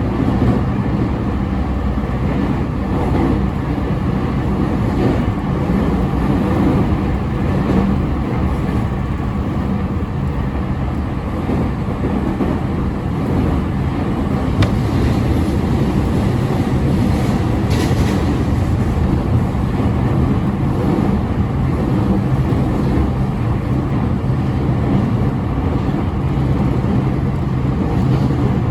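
E217-series electric train with a Mitsubishi IGBT inverter running steadily, heard from inside the car: a continuous rumble of wheels on rail and traction motor noise, with a short clack about eighteen seconds in.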